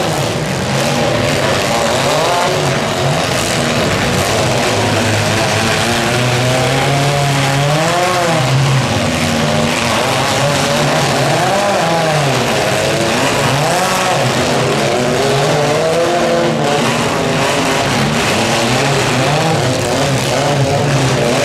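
Several small four-cylinder car engines revving hard, their pitch rising and falling over and over as the demolition derby compacts push and grind against each other.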